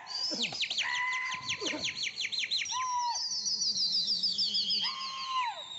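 Birds calling: fast runs of high, falling chirps, several a second, mixed with a few longer clear whistled notes that rise, hold and fall away.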